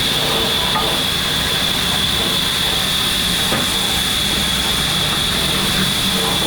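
Steady machinery running, a constant high whine over a loud even hiss.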